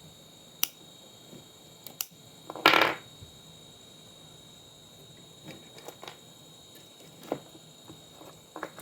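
Scattered sharp clicks and a short clatter about three seconds in, from tools and small plastic or metal parts being handled while an old monitor is taken apart.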